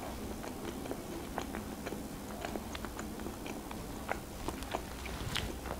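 A person chewing a mouthful of pizza close to the microphone: irregular small mouth clicks, several a second.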